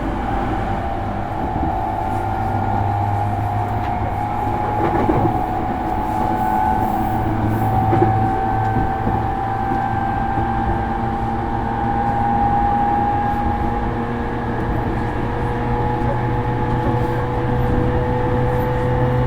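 JR East E231-series electric train running, heard from inside a motor car: a steady traction-motor whine that rises slowly in pitch as speed builds, over the rumble of wheels on the rails. There are a couple of short knocks about five and eight seconds in.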